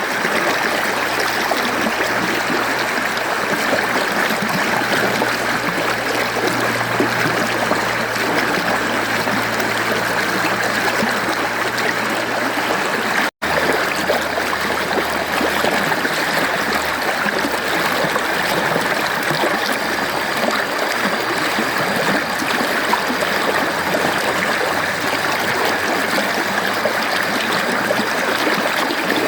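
Mountain stream water flowing steadily, an even rushing and trickling. The sound cuts out for an instant a little before halfway, then carries on as before.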